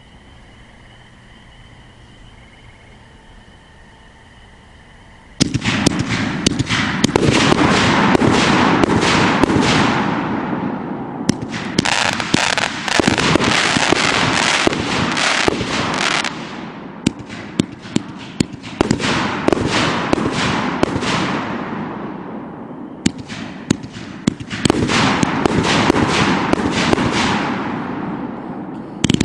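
OMG Fireworks HORNPUB 500-gram cake firing, starting about five seconds in: a dense run of sharp bangs and crackling in several waves that ease off and build again, with the rapid popping of strobe and crackling effects.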